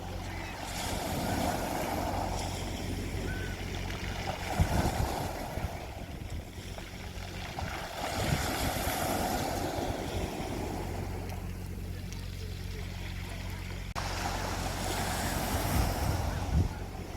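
Sea waves washing onto a beach, swelling and falling back every few seconds, over a low steady hum.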